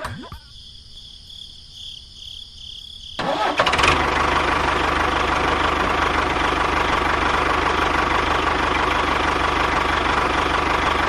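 The small engine of a DIY mini tractor starts about three seconds in and then runs steadily and evenly.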